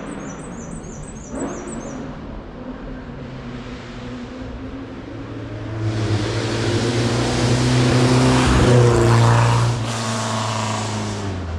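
A hillclimb race car's engine under hard acceleration, growing louder from about halfway through and then dropping off sharply near the end. A fast, high repeated chirping is heard in the first two seconds.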